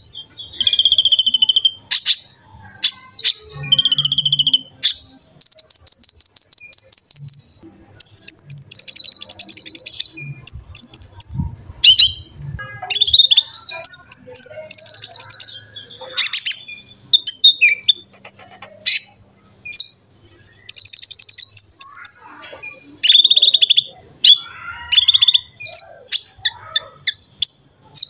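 Konin (kolibri ninja), a small sunbird, singing vigorously. It gives rapid high-pitched chirps, buzzy trills and fast runs of repeated notes, one phrase after another with only short gaps.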